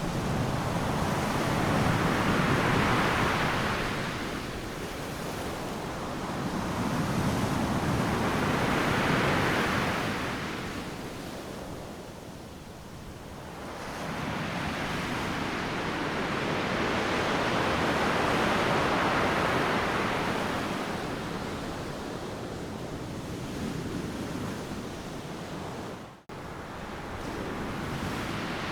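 Ocean surf: waves breaking and washing up a sandy beach, rising and falling in slow surges about every six to ten seconds. Near the end the sound cuts out for a split second.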